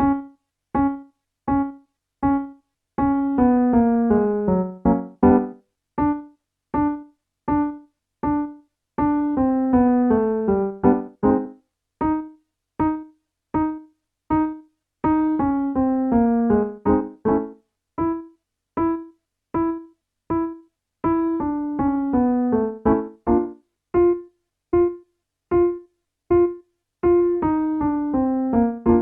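Piano playing a vocal warm-up pattern: short detached notes repeated on one pitch, then a descending run of notes. The pattern repeats about every six seconds, starting a little higher each time.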